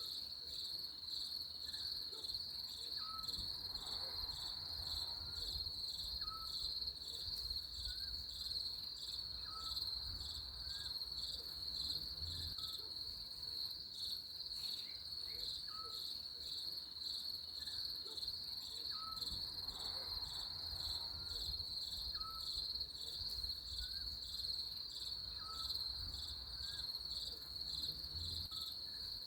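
Steady, high, finely pulsing chorus of crickets, with faint short chirps every second or two.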